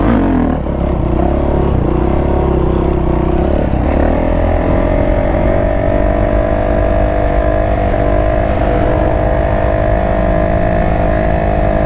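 Yamaha YZ450F single-cylinder four-stroke dirt bike engine revving. Its pitch rises and falls over the first few seconds, then holds steady at higher revs from about four seconds in.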